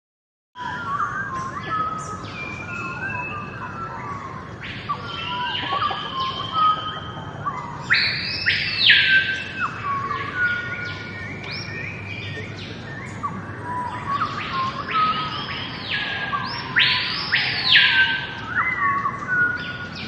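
Several birds singing and calling: many whistled chirps and notes, with loud swooping calls that rise and fall, over a steady low hiss. It starts suddenly about half a second in, after silence.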